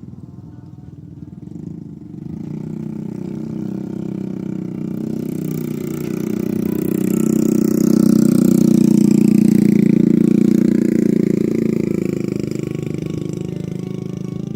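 A motor vehicle's engine passing by: a steady hum that builds to its loudest a little past the middle, then fades away.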